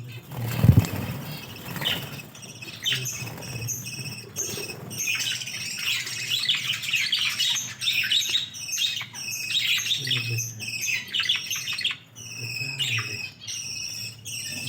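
A flock of budgerigars chirping and chattering, a dense run of short high chirps; a loud thump from handling about a second in.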